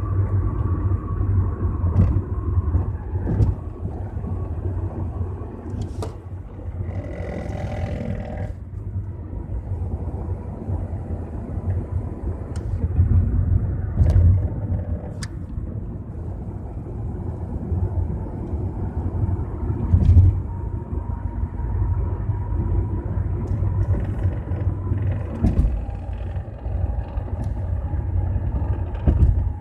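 2008 Chevrolet Cobalt driving, with a steady low road rumble, a few sharp clicks and a faint whine that comes and goes. About seven seconds in there is a brief squeal with several pitches. This is the intermittent brake-area noise that the owner first blamed on a caliper; it persisted after the caliper was replaced, and its cause is unknown.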